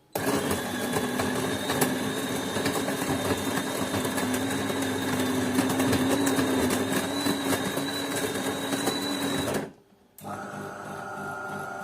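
DeLonghi automatic coffee machine's built-in grinder running loudly for about nine and a half seconds, with a rattle of beans being ground, then stopping abruptly. After a short pause, a quieter, steady hum of the machine starts up for the next stage of the brew.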